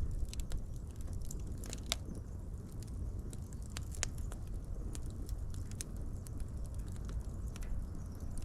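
Wood fire crackling: a steady low rumble of flames with irregular sharp pops and snaps, the loudest about two and four seconds in.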